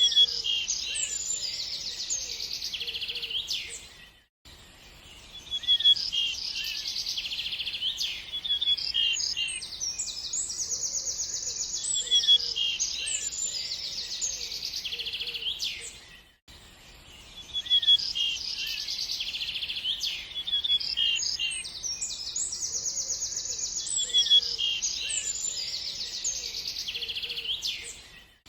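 Small birds chirping and trilling in quick high notes, a short recording played on a loop that drops out briefly about every twelve seconds before repeating.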